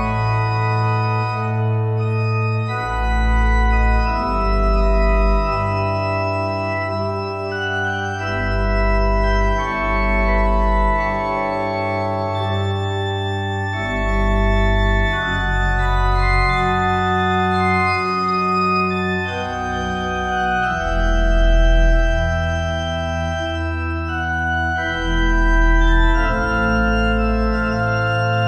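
Organ playing slow, sustained chords over deep pedal bass notes, the harmony changing every second or two.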